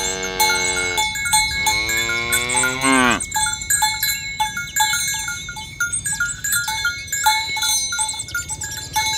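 A cow moos once, a long call starting about half a second in and lasting nearly three seconds, dropping in pitch as it ends. After it come short ringing bell notes repeated a few times a second, with faint high chirps.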